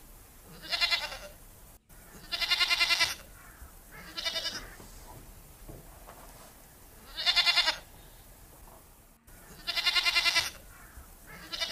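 Livestock bleating: a series of about six wavering bleats, each under a second long, a second or more apart.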